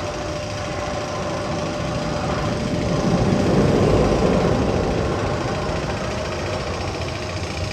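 Steady mechanical rumble and rattle, most likely one of the Magnum XL-200 tunnel's sound effects played over speakers, swelling to its loudest about three seconds in and easing back, with a faint steady hum underneath.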